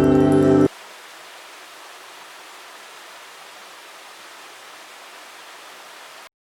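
Ambient music with ringing, bell-like tones cuts off abruptly about half a second in, leaving a steady, even rushing noise like wind or running water, which stops suddenly near the end.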